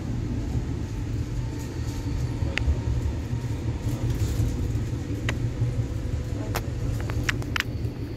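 Cabin sound of a NSW TrainLink V set double-deck intercity electric train running along the line: a steady low rumble from the running gear, with several sharp clicks, the first about two and a half seconds in and a cluster near the end.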